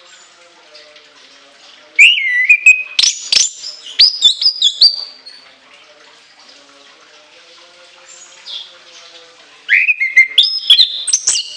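Chestnut-capped thrush (anis kembang) singing shrill whistled phrases with sharp, clipped notes. It sings two bursts, one about two seconds in and one near the end, with a quiet pause between them.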